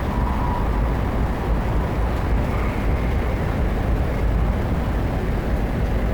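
Steady low rumble and rush of a 500 series Shinkansen train running, heard inside the passenger cabin.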